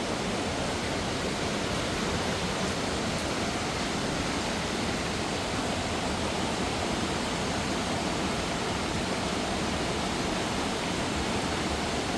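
Steady rushing of a mountain waterfall and stream water pouring over rocks, an even, unbroken wash of noise.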